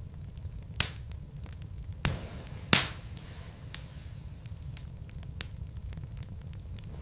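Wood logs burning in a fireplace: a steady low rumble of flame with scattered sharp crackles and pops, the loudest pops about two and three seconds in.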